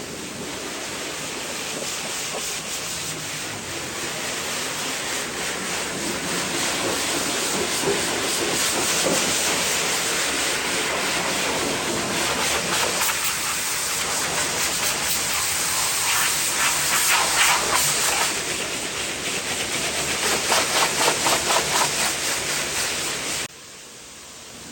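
Pressure-washer water jet spraying with a steady hiss. It pulses rapidly for a few seconds, then cuts off suddenly near the end.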